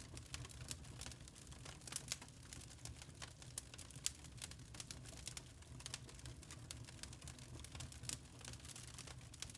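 Burning charcoal crackling: a dense, irregular run of small sharp pops and snaps over a low, steady rumble.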